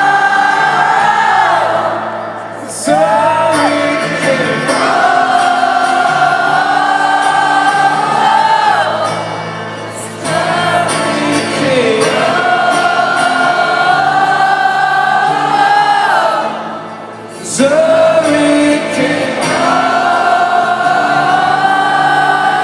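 Song with long, held, wordless sung notes in several voices like a choir, over a low steady accompaniment. It comes in three long phrases, each ending with a brief dip.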